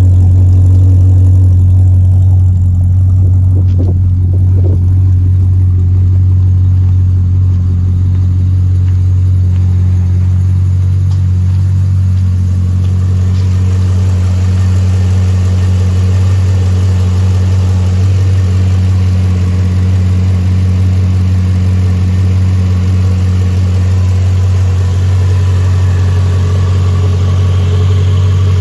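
2003 Ford Fairlane G220's 5.4-litre V8 idling steadily, still warming up after a cold start. Its tone fills out a little about twelve seconds in.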